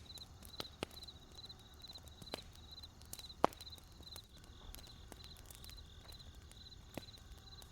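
Wood campfire crackling with scattered sharp pops, the loudest about three and a half seconds in, over crickets chirping in short, evenly repeated pulsed trills.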